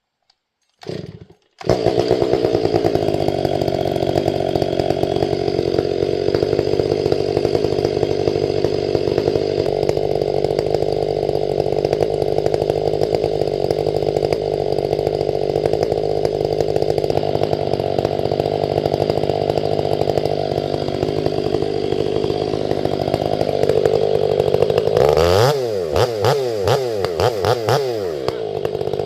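Ported Stihl 500i two-stroke chainsaw with a hand-filed chain bucking a grand fir log: after a short pause it runs at steady high speed through a long cut. Near the end the engine speed rises and falls over and over, about twice a second.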